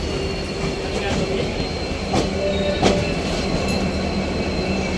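Train running on the rails: a steady low rumble with a faint high wheel squeal and a few sharp clacks of wheels over rail joints.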